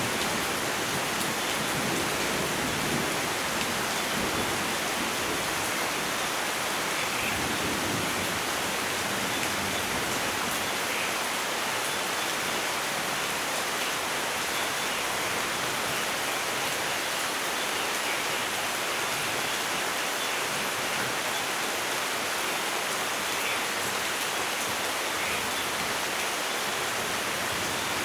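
Steady heavy rainfall, an even hiss of rain on foliage and ground, with the last of a low thunder rumble dying away in the first several seconds.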